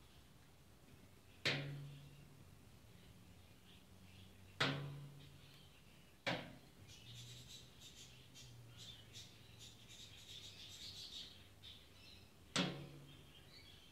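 Four loud clangs, each ringing out briefly, made by a bird knocking on something, irregularly spaced with the last near the end. High bird twittering runs between the third and fourth clang.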